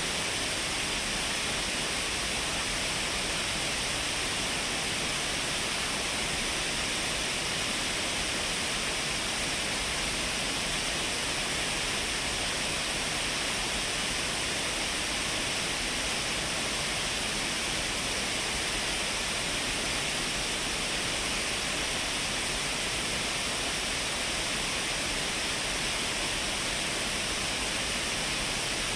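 Shiraito Falls, a wide waterfall of many thin streams spilling over a cliff, rushing steadily. The sound is an even hiss with little deep rumble.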